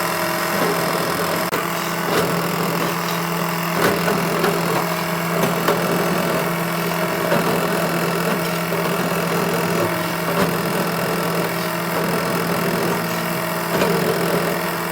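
A machine running steadily with a low, even hum and a faint crackling hiss over it, cutting off at the end.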